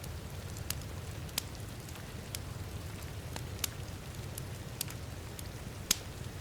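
Wood fire crackling, with scattered sharp pops at irregular intervals and one louder pop near the end, over a steady wash of heavy rain with a low rumble underneath.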